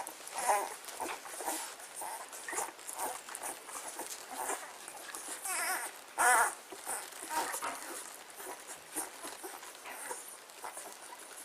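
Dogs at feeding time giving short, wavering, high whines and yelps, again and again, the loudest about halfway through, over a scatter of small clicks and knocks.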